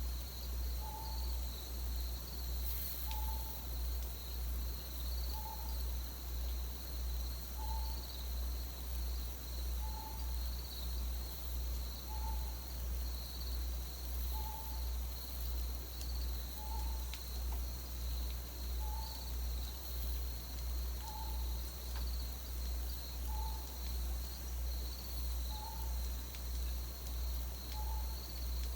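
An owl calling a single short hoot about every second and a half, over a steady trilling of insects and a low hum.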